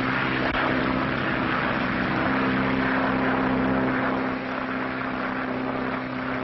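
Propeller airplane engine droning steadily in flight, a continuous hum with a noisy rush over it, easing slightly about four seconds in.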